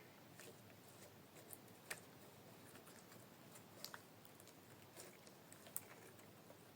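Glitter slime handled close to the microphone: faint sticky clicks and small air-bubble pops, with a few sharper pops about two, four and nearly six seconds in.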